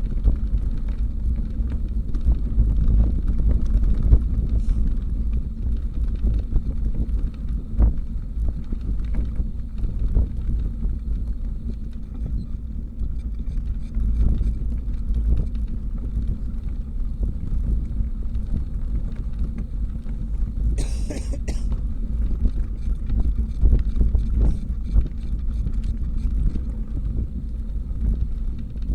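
Steady low wind noise on the camera microphone while riding a bicycle, with a brief hiss about two-thirds of the way through.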